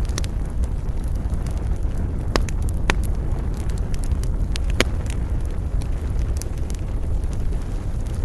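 Wood campfire crackling, with many small snaps and three louder pops in the middle stretch, over a steady low rumble.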